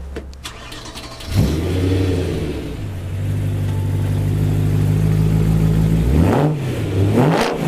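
BMW M3 E92's naturally aspirated 4.0-litre V8, breathing through an M Performance exhaust, revved with the car standing. A sharp rev comes about a second and a half in, the engine then holds a steady raised speed, and near the end it is blipped twice with quickly rising and falling pitch.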